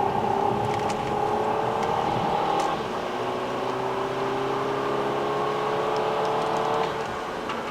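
Car engine pulling under throttle. About three seconds in, the pitch drops as it shifts up a gear, then rises slowly as the car accelerates, until the throttle comes off near the end.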